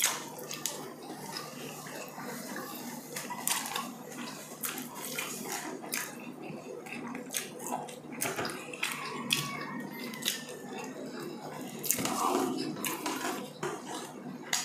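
People chewing and eating food by hand: a steady run of small irregular mouth clicks and smacks.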